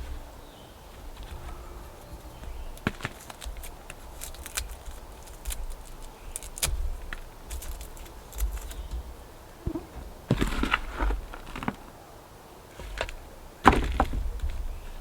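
Hands at work repotting plants: scattered light clicks, knocks and rustles of pots and potting soil being handled, busiest about two-thirds of the way through and again near the end.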